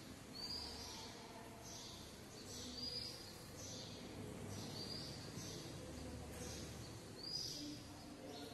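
A small bird chirping outside, short high chirps repeating irregularly every second or two over a faint steady hum.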